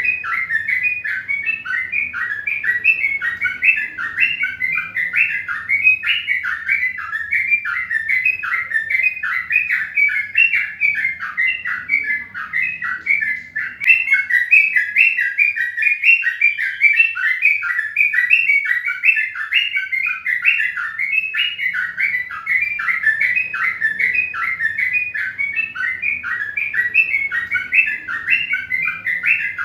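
Birds chirping: a dense, unbroken stream of short, rapid chirps.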